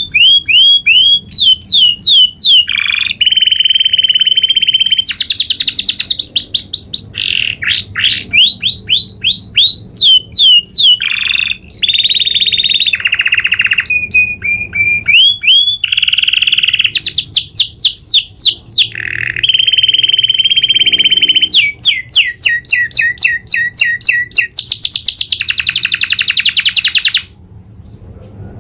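Domestic canary singing a long rolling song, one fast trill and run of rapid repeated notes after another with hardly a pause, broken off briefly near the end.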